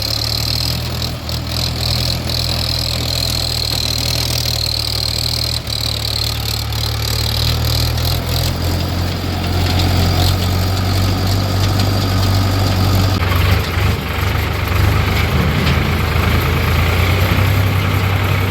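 Diesel engine of a backhoe loader or tractor running steadily at low speed, close by, with a faint high whine over it for the first few seconds.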